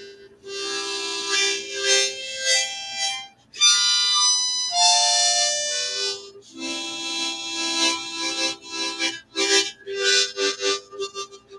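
Hohner harmonica playing a melody solo: long held notes and chords at first, then quicker short notes near the end.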